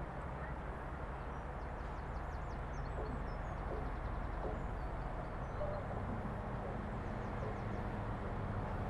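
Steady low rumble and hum of a train engine, growing slightly louder. Birds chirp in short bursts over it.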